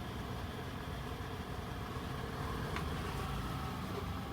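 Car engine idling with a steady low hum, with one faint click nearly three seconds in.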